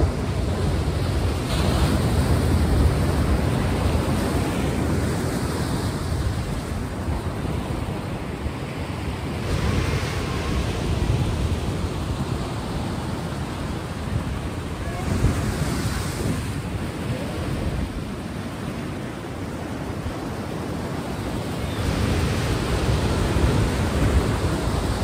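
Ocean surf: a steady wash of waves with four louder swells as waves break.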